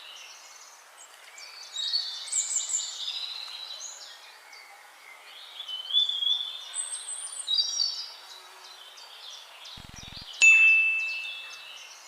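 Birds chirping and singing, with a single bell-like ding near the end that rings on and fades.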